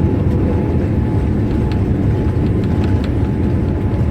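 Loud, steady rumble in the cabin of a Boeing 787-8 Dreamliner as it lands, with a few faint rattling ticks.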